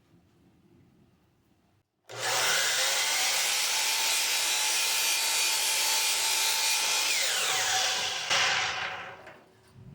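Power saw cutting through a wood burl: the saw starts about two seconds in, cuts with a steady whine for about six seconds, then winds down with falling pitch and fades near the end.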